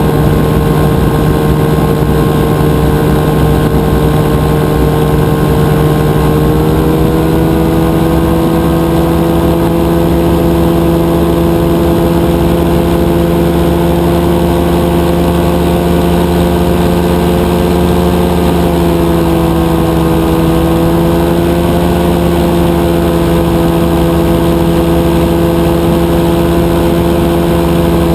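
Rotax 582 two-stroke engine and propeller of a powered parachute running steadily in flight. The drone shifts pitch about six seconds in and dips slightly about two-thirds of the way through.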